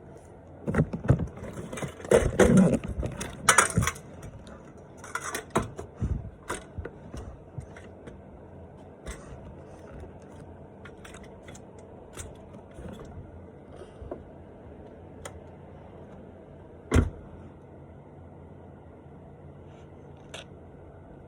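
Handling noises around a pickup truck's cab: a burst of rattles, jingling and knocks for the first few seconds, then scattered light clicks and one sharp knock about 17 seconds in.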